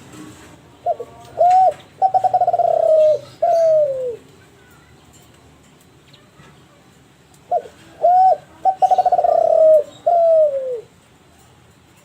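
Kelantan-strain spotted dove (derkuku/tekukur Kelantan) cooing two song phrases about six seconds apart. Each phrase runs the same way: a short note, a rising-and-falling coo, a quick rolling trill, and a long falling final coo.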